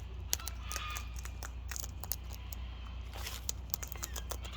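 A white cockatoo cracking seed in its beak: irregular sharp clicks, several a second, over a low steady hum.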